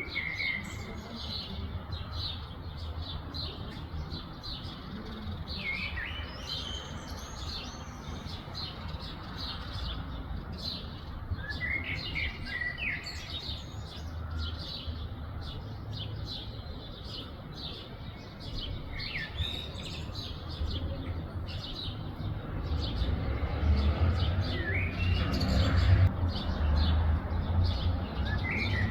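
Songbirds chirping continuously, with one bird repeating a short gliding song phrase about every six seconds. A low rumble runs underneath and grows louder near the end.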